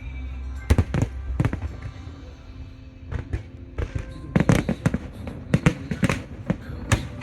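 Fireworks display shells bursting: a quick run of sharp bangs about a second in, then a dense rapid volley from about four seconds on.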